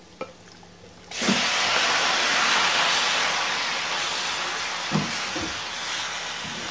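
Raw chicken pieces hitting hot coconut oil and masala in a stainless steel pan: a loud sizzle starts suddenly about a second in and slowly eases. A couple of knocks from the wooden spatula come late on as the chicken is stirred.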